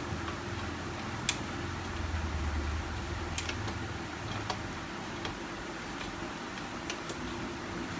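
Scattered sharp plastic clicks and taps as the laser printer's back cover is handled and its locks snapped into place, over a steady low hum.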